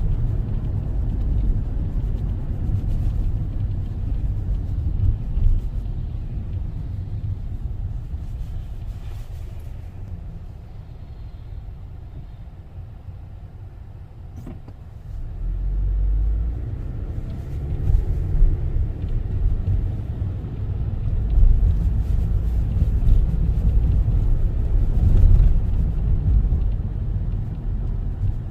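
Car driving on city streets: a steady low road and engine rumble that dies down for a few seconds around the middle, then grows louder again.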